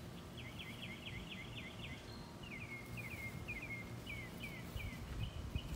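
A songbird singing outdoors: a quick run of short downward-slurred chirps, then a slower series of the same kind of downward notes, over a faint low rumble of outdoor background noise.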